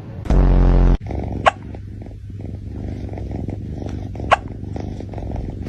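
A cat hiccuping: two short, sharp hiccups, about a second and a half in and again about four seconds in, over a steady low rumble. Near the start, a much louder low blast lasts about half a second.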